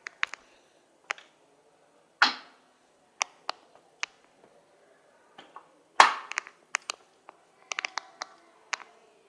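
Scattered sharp clicks and knocks, with two louder knocks about two and six seconds in that each trail off briefly.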